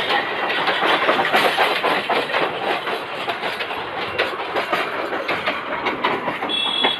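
Freight train wagons running on the track, their wheels clattering and knocking irregularly over the rail joints.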